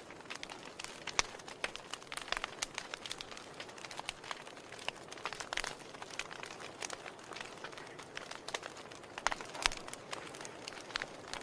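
Wood fire burning in a fireplace, crackling and popping irregularly over a soft steady hiss, with a few sharper pops scattered through.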